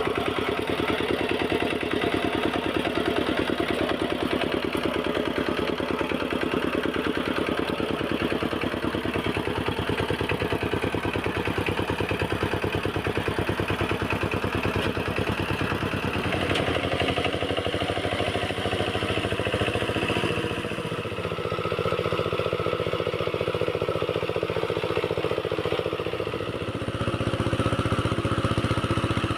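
Kamco power tiller's single-cylinder diesel engine running with a rapid, even beat. Its note changes about halfway through, and the sound dips briefly twice later on.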